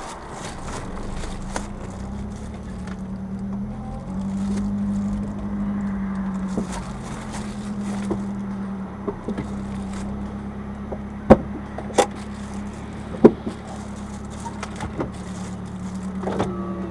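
Subaru Sambar kei vehicle's small engine running steadily while driving, heard from inside the cab, rising a little about four seconds in. A few sharp knocks or rattles come through near the middle.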